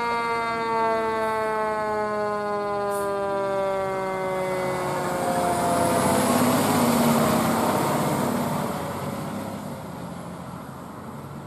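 Fire engine siren going by: a long wail that slowly slides down in pitch over several seconds and fades. The truck's engine and road noise swell about halfway through and then die away.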